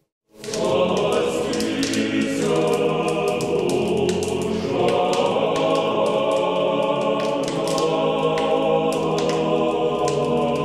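Choir singing slow, sustained chords, starting about half a second in after a brief silence, with the chord shifting a few seconds in.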